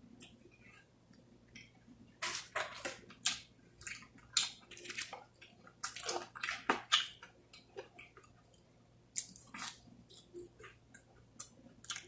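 Close-up mouth sounds of someone eating: irregular wet smacks, clicks and chewing, coming thick from about two seconds in.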